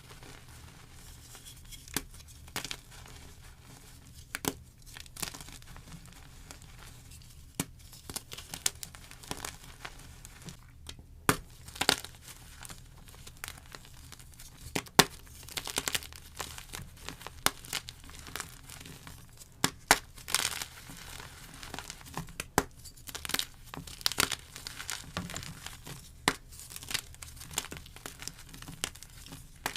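Block gym chalk being crushed and broken by hand, close up: irregular sharp cracks and crunches with soft, powdery crumbling between them. The loudest crack comes about halfway through.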